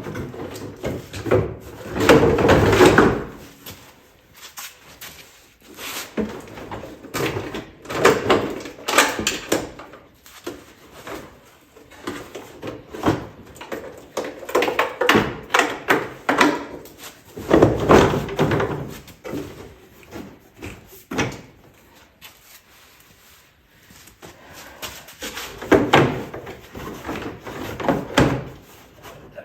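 Irregular clunks and clatter of tools and metal parts being handled during repair work on an ATV, in bursts every few seconds with short quiet gaps between.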